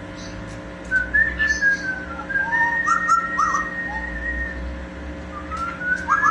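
Amazon parrot whistling a tune, starting about a second in: clear notes that slide up and down, with one long held note in the middle.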